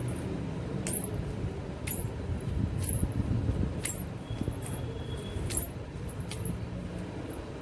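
Four pairs of anklets (payal) worn together, jingling about once a second, likely with each step, over a steady low background rumble.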